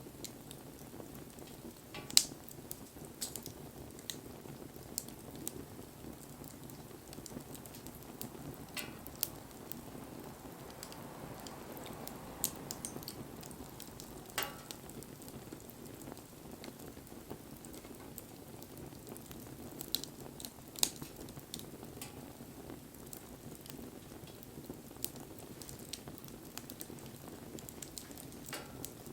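Wood fire burning: a steady low rush from the flames with scattered sharp crackles and pops from the burning wood. The loudest pop comes about two seconds in.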